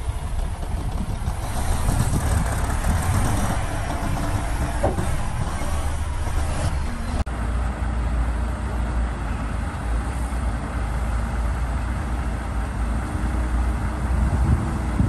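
Heavy diesel earthmoving machinery running with a steady deep engine rumble. There is a split-second break in the sound about halfway through.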